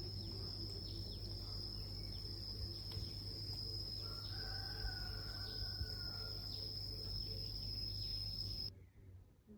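Outdoor nature ambience: birds chirping with short falling calls over a steady high-pitched insect drone and a low rumble. It all cuts off abruptly near the end.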